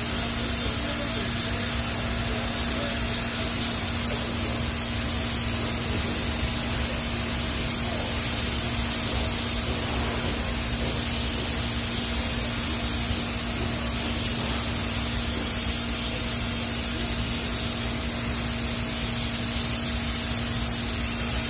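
TIG welding arc running a root pass on stainless steel pipe: a steady hiss with a constant low hum underneath.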